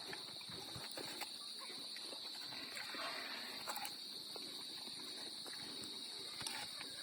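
Native pigs eating young coconut (buko), with scattered short clicks and crunches of chewing, over a steady high-pitched drone.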